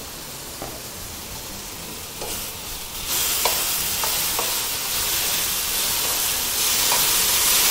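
Rounds of sponge gourd (loofah) frying in oil in a wok, sizzling with a steady hiss that grows much louder about three seconds in. Tongs turning the slices make a few light clicks against the pan.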